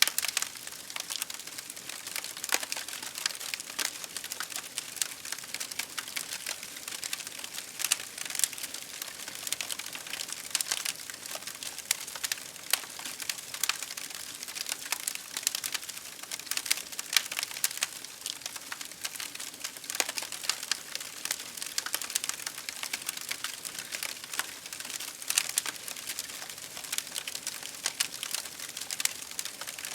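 Campfire burning with dense, irregular crackling: many small pops and snaps over a steady hiss.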